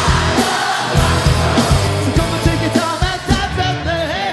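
A live pop-rock band playing, with singing over a steady drum beat.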